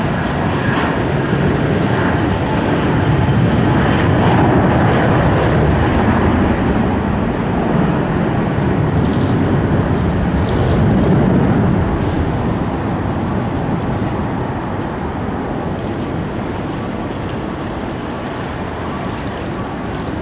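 Jet airliner's engines, a loud steady rush that peaks in the middle and then slowly fades.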